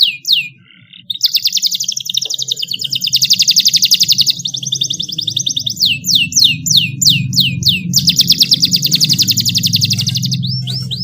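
Domestic canary singing: runs of quick falling whistled notes alternating with long, very rapid rolling trills, with a short pause about half a second in. A low steady hum runs underneath.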